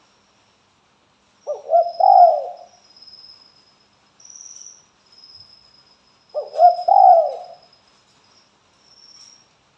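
Spotted dove cooing: two calls about five seconds apart, each a short note followed by a longer falling coo.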